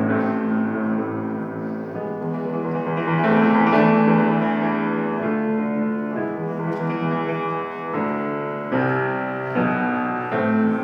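Solo instrumental performance of a Ukrainian shumka, a folk-dance piece: a keyboard instrument plays chords and melody together, with held bass notes under a moving upper line.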